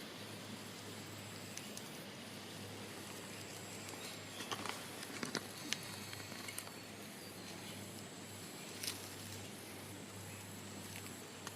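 Faint outdoor ambience: a steady hiss and low hum, with a faint high thin tone that comes and goes, and a few small sharp clicks and rustles bunched about four to six seconds in and once more near nine seconds.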